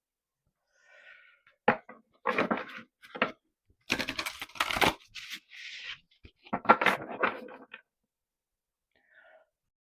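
Tarot deck being shuffled and handled, in several short bursts of card-flicking and rustling with pauses between.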